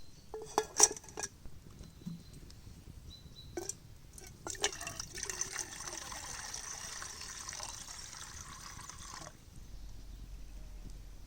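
A few sharp clicks and knocks, then liquid being poured steadily for about five seconds, stopping suddenly.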